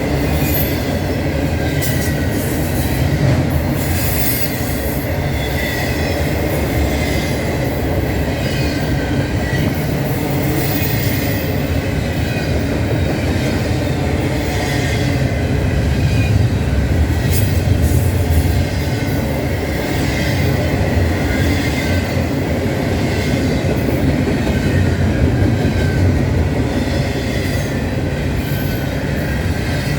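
Norfolk Southern train rolling past: a steady, loud rumble with irregular clacking of wheels over the rail and a thin, wavering wheel squeal.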